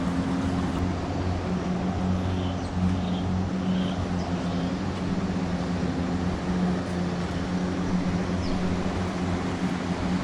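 Steady engine hum, running evenly at one pitch without revving, with a few faint short chirps about a third of the way in.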